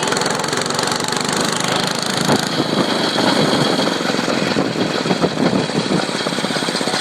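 Dirt bike engine running while being ridden, a rapid steady firing that grows a little uneven for a few seconds in the middle.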